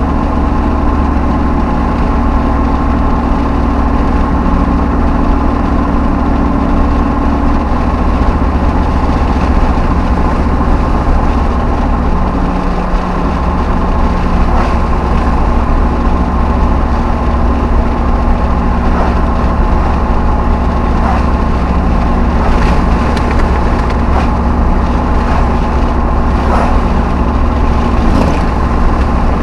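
V8 Hemi pickup truck driving, heard from inside the cab: a steady engine and road drone, with its pitch shifting about eight and again about twelve seconds in.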